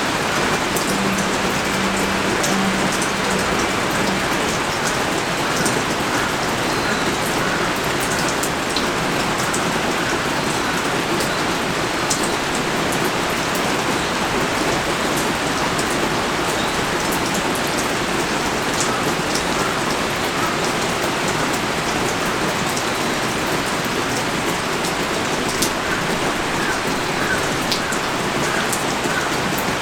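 Heavy rain pouring steadily, a dense hiss of rain on surfaces with scattered sharper drops ticking through it.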